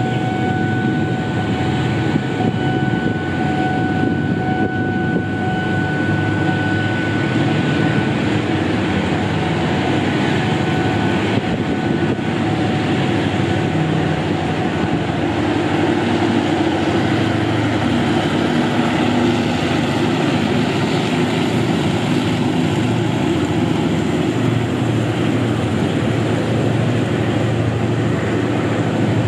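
Train running, a steady loud rumble of engine and wheels on rails, with a steady whine that fades out about ten seconds in.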